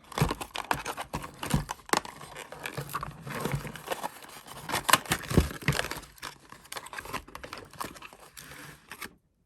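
Packaging crinkling and rustling, with irregular clicks and knocks as products are handled and unpacked. It cuts off abruptly near the end.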